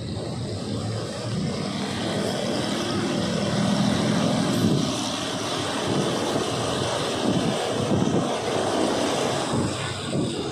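Passenger train running, a steady rumble and rush of air heard from on board.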